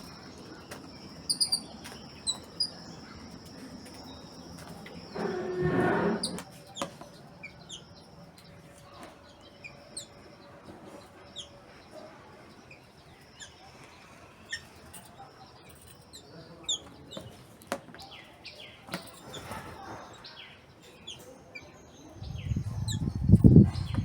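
Small birds chirping, many short high chirps scattered throughout, with a high steady trill in the first few seconds and a louder, lower sound about five seconds in. Near the end, a low fluttering rumble, like wings flapping close by, is the loudest sound.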